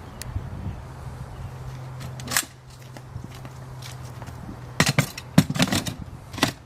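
A few sharp knocks and clatters, close together near the end, over a steady low hum that stops about two and a half seconds in.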